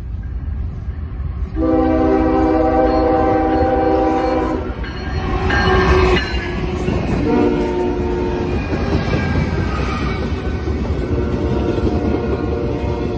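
Norfolk Southern diesel locomotive's air horn sounding a long blast and then a shorter, lower one as the train approaches and passes. The locomotives' engine rumble peaks about halfway through as they go by. After that comes the steady rolling and clacking of the intermodal cars' wheels on the rails.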